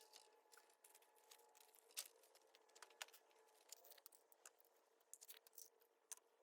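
Near silence: a faint steady hum with scattered light clicks and taps, as of small parts being handled. The clearest ticks come about two and three seconds in.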